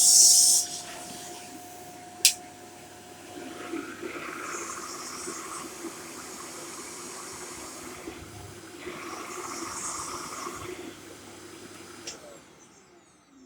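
Shark corded upright vacuum cleaner running, a loud rush of air at the start, then steady motor hum and airflow hiss that swells twice. About twelve seconds in it is switched off and the motor winds down with a falling whine.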